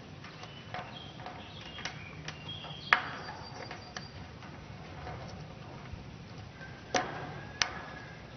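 Scattered sharp taps and knocks from a cockatoo working at wood and sticks with its beak, irregular and about a second apart, the loudest about three seconds in and another pair near the end, with a few faint short high squeaks between them.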